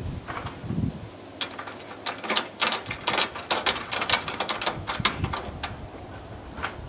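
Rapid, irregular clicks and clatter of small hard parts being handled or worked, densest from about one and a half to five and a half seconds in.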